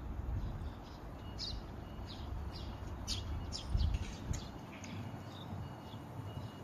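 Small birds chirping: a run of short, high chirps, most of them in the middle stretch, over a low rumble that swells briefly and then falls away.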